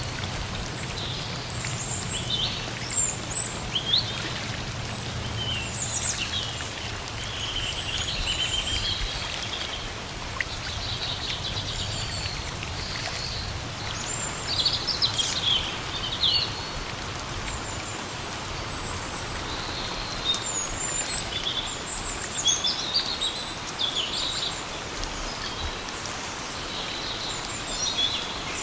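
Steady rain, an even hiss, with several birds chirping and singing over it throughout.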